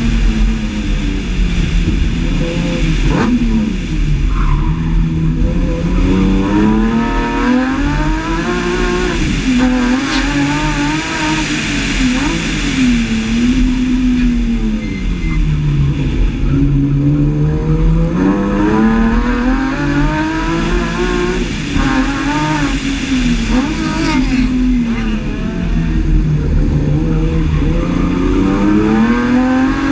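BMW E30 fitted with an S50B32 3.2-litre straight-six, heard on board, driven hard: the engine revs up and drops back every few seconds, over and over, with the gear changes and braking of tight turns.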